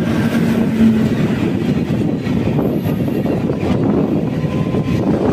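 MEMU electric multiple-unit train running on the line, a steady loud rumble of wheels and carriage.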